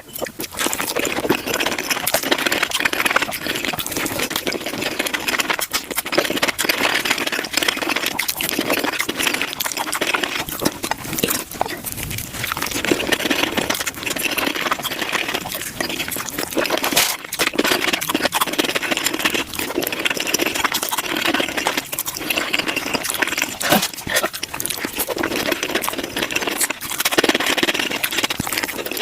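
Taco eating sounds sped up five times: a dense, unbroken run of rapid crunching and chewing with many sharp clicks.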